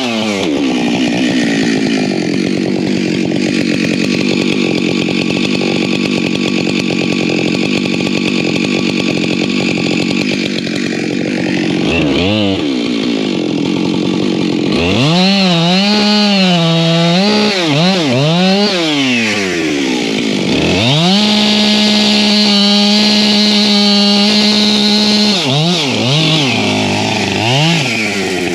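Husqvarna chainsaw cutting firewood. It runs steadily under load in the cut for about twelve seconds. Then the revs rise and fall again and again as the chain goes into and out of cuts, with a steadier high-rev stretch in the middle of that part.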